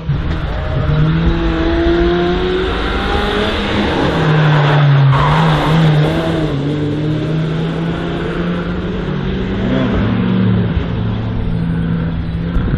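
Race car engine accelerating hard, its pitch rising several times in the first few seconds as it revs up through the gears, then running on at high revs.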